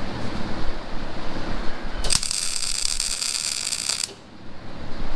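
Arc welding: a short weld bead of about two seconds starting about two seconds in, a steady crackling hiss that starts and stops abruptly as the arc is struck and broken.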